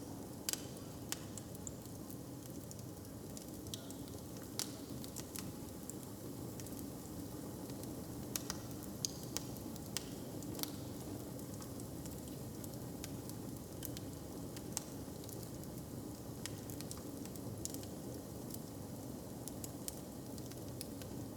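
Wood fire crackling in a hearth: irregular sharp pops and snaps scattered over a steady low rumble.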